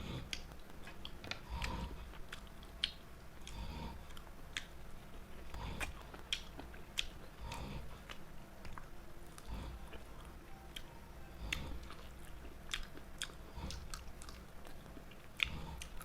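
A person chewing and biting food close to the microphone, with many short, sharp wet mouth clicks throughout.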